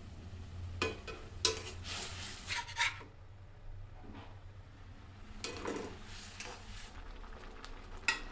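Cooking utensil scraping and knocking against a pan in several short bursts, over a low steady hum.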